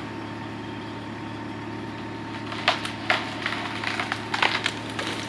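An engine idling steadily, with a row of sharp cracks and knocks in the second half, like wood snapping or being struck.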